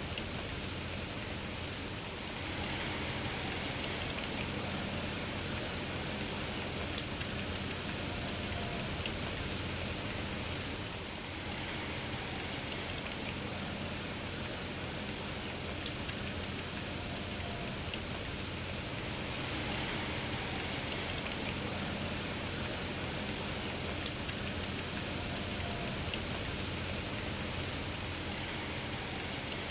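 Steady rainfall, with three sharp single ticks about eight seconds apart.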